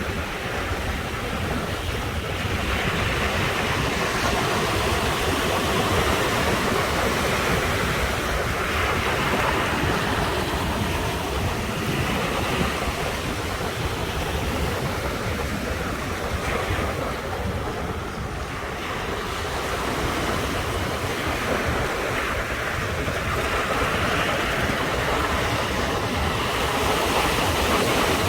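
Ocean surf breaking on the shore: a continuous rushing wash that swells as each wave comes in every few seconds, with a deep low rumble underneath.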